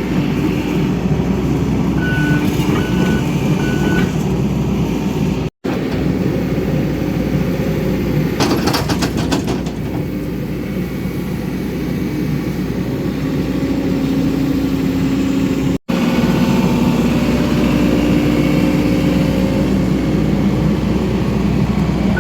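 Excavator's diesel engine running steadily under hydraulic work, with a few short high beeps about two to four seconds in and a burst of clattering about eight seconds in.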